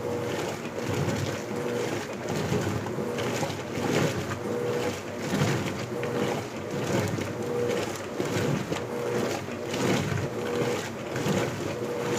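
Electrolux LBU15 top-loading washing machine agitating a load in water on turbo agitation. The motor hums in strokes of about a second as the agitator swishes clothes and water back and forth.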